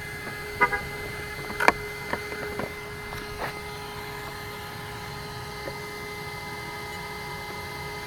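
A few short, sharp plastic clicks and taps from hands working on the RC truck's receiver box, the loudest just before two seconds in. Under them runs a steady faint whine.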